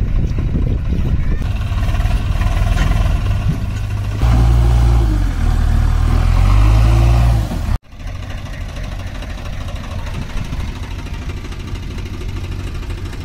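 Heavy diesel engines of working machinery running: louder from about four seconds in, with the engine note rising and falling as it revs under load, then a sudden cut near the eight-second mark to a steadier running engine.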